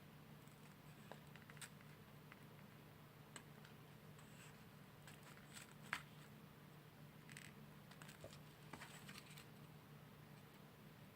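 Faint, scattered light taps and rustles of small paper-covered cardboard fireplace pieces being handled and pressed together while being glued, with one sharper tap about six seconds in, over a steady low hum.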